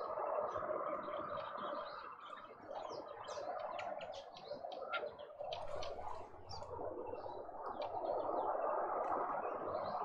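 Many birds chirping and calling over one another, a dense run of short high notes, over a steady background noise.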